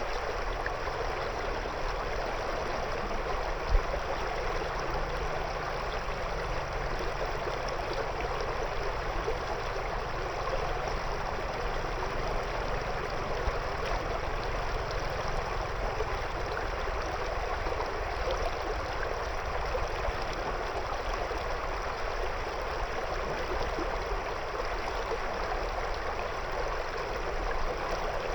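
River water flowing steadily over and around stones, an even rushing with burbling. A single brief thump stands out about four seconds in.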